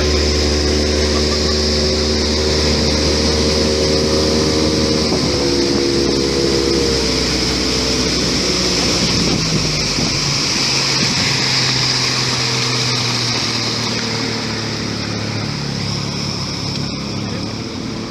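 Motorboat engine running steadily under a rush of water and wind. Its pitch drops in two steps, about five and seven seconds in, as it throttles back.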